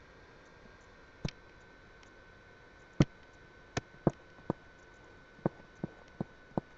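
About ten short, sharp clicks at uneven intervals, closer together in the second half, over quiet room noise with a faint steady whine.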